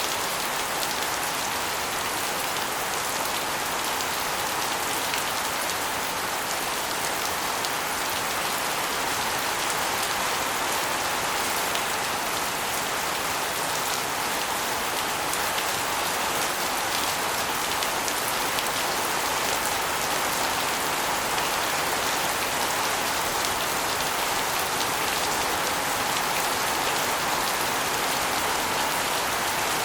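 Steady rain, with water spilling off an asbestos roof and splashing onto a concrete floor and walls: a constant hiss of many fine drops and spatters.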